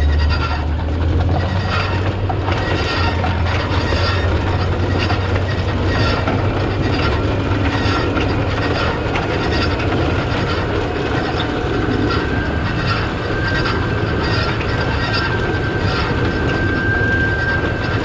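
Case IH Steiger 9370 tractor's Cummins N14 six-cylinder turbo diesel running steadily under load, with the rattle and clank of a Väderstad TopDown cultivator working the soil. Frequent irregular knocks over a constant low engine drone, and a faint steady whine in the second half.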